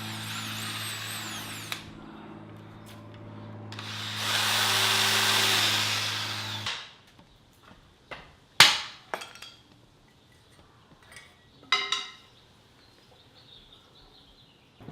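A handheld power drill runs with a steady motor hum, loudest from about four seconds in while it bites, then stops at about seven seconds. A few sharp knocks follow.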